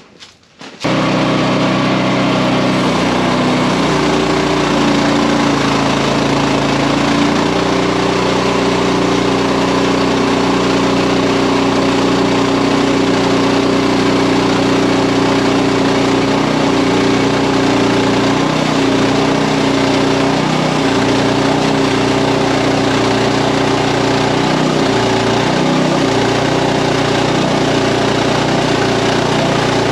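Frontier OS31 portable bandsaw mill's engine running steadily as the band blade saws through a wide elm log near the mill's full cutting width. The sound cuts in suddenly about a second in, and its pitch shifts slightly now and then as the load on the blade changes.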